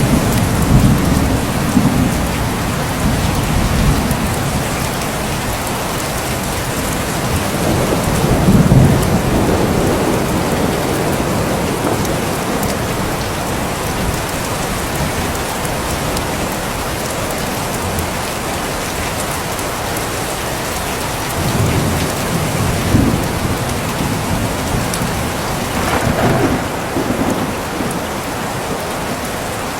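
Steady heavy rain falling, with low rolls of thunder rumbling up several times, the strongest at the start and about a third of the way in.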